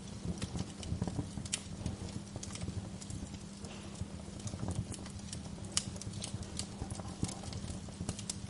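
Wood fire in a fireplace crackling: irregular sharp pops and snaps over a low rumble of burning.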